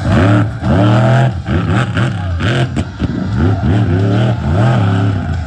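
Monster truck engine revving hard in repeated throttle blips, its pitch swinging up and down several times.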